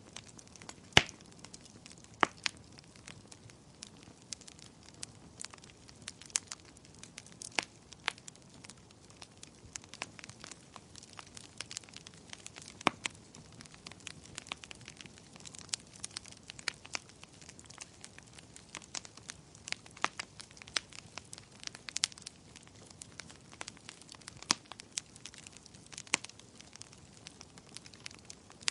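Wood fire crackling in a fireplace: irregular sharp pops and snaps over a soft steady hiss, the loudest pop about a second in.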